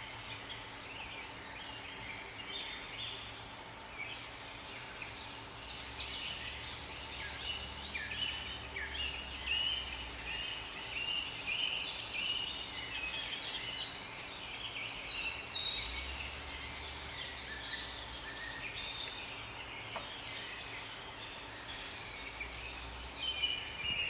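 A chorus of small birds chirping and trilling, many short calls overlapping throughout, over a faint steady low hum.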